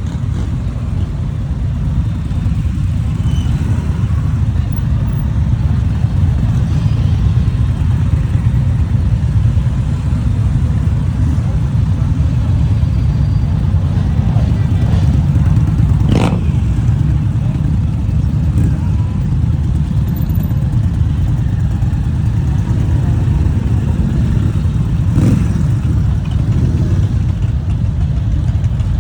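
Motorcycle engines running, a steady low rumble, with a brief sharp sound about sixteen seconds in.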